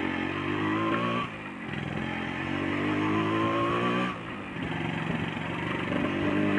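Yamaha RX-King 135cc two-stroke single-cylinder motorcycle engine accelerating through the gears: the pitch climbs, drops at a shift about a second in, climbs again, and drops at a second shift about four seconds in before rising once more.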